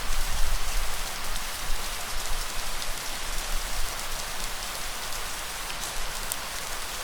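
Steady rain falling, a dense even hiss of drops, with a low rumble underneath that is strongest in the first second or so.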